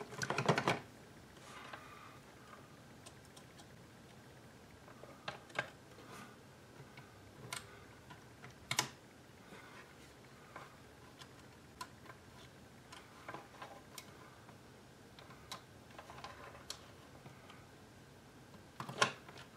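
Scattered faint clicks and taps of small plastic parts being handled and fitted together while a car climate control unit is reassembled.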